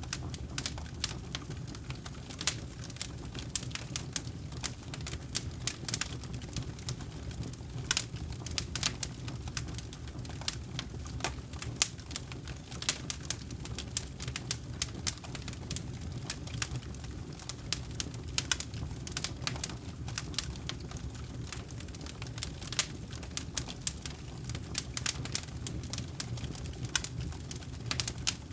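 Campfire crackling: irregular sharp pops and snaps, several a second, over a steady low sound of the burning fire.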